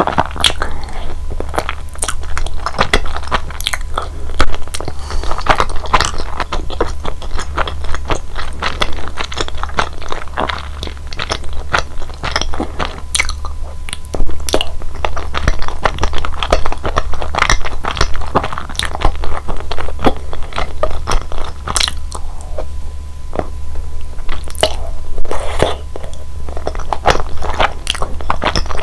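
Close-miked chewing of chewy, sticky mitarashi dango (glutinous rice dumplings in a sweet soy glaze): irregular wet mouth clicks and smacks, with bites taken from the skewer.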